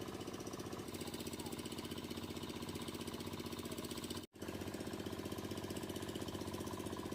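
A small engine running steadily with a fast, even chugging beat. It cuts out for a moment a little over four seconds in, then carries on as before.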